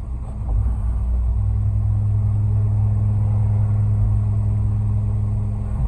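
Concrete mixer truck's diesel engine running up about half a second in and then holding at a steady raised idle, a low even rumble.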